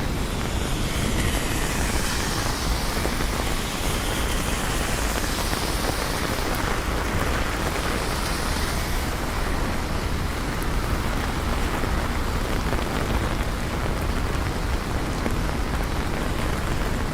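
Steady rain falling on city streets, with the hiss of traffic on wet pavement; a vehicle swishes past in the first half.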